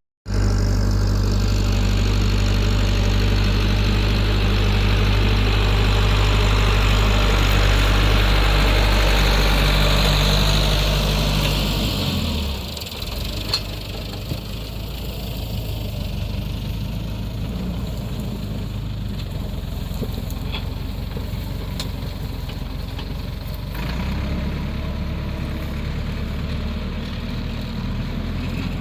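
An engine running steadily at a low, even pitch. About twelve seconds in it drops lower and quieter, then rises a little again near the end.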